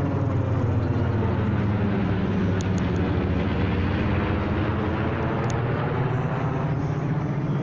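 Airplane engine droning steadily as the aircraft flies past. Its pitch shifts slightly over the seconds.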